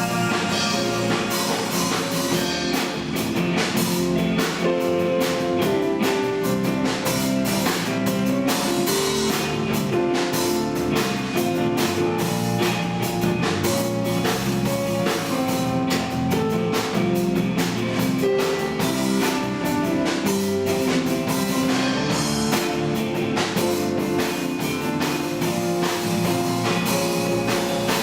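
A live rock band playing an instrumental passage of a song: guitar over a steady drum-kit beat.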